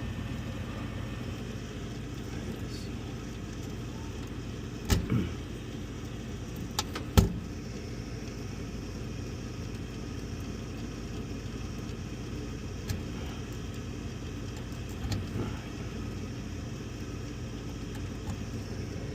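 Older York gas furnace running with a steady mechanical hum, broken by a few sharp knocks and clicks. The limit switch is open, which the technician puts down to the blower motor not turning on.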